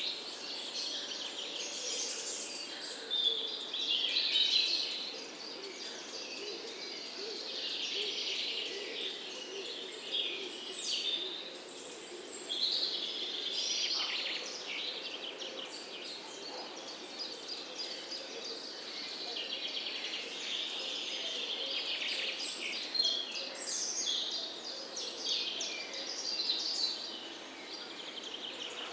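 Several songbirds chirping and trilling at once, a continuous overlapping chorus of high calls, over a faint steady background hum.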